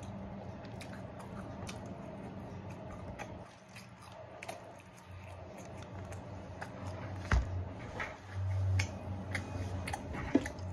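Close-up eating sounds: crunchy fried sesame chicken being bitten and chewed, with scattered small crunches and clicks of a plastic fork in a plastic takeout container. A sharper knock comes a little past seven seconds in.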